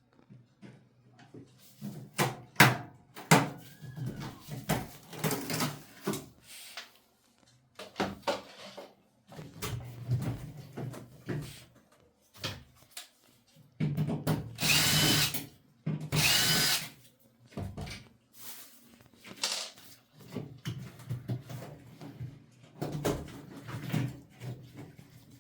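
Power drill running in two short bursts of about a second and a half each, amid clicking and rattling of tools and metal parts being handled while the clamps of a washing machine door seal are removed.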